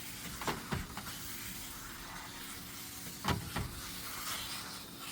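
Steady hiss of water spraying from a water-fed cleaning pole onto a garage door, with a few soft knocks about half a second in and again a little over three seconds in.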